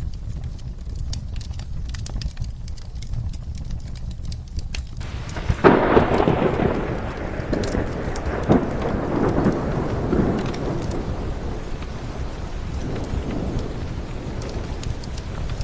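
Steady rain with a low rumble and scattered sharp ticks; about five and a half seconds in a thunderclap breaks suddenly and rolls away over several seconds in fading rumbles.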